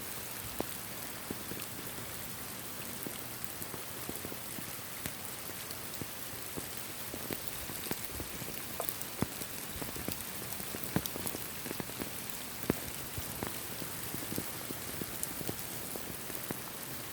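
Steady rain, an even hiss broken by many scattered individual drops ticking close to the microphone.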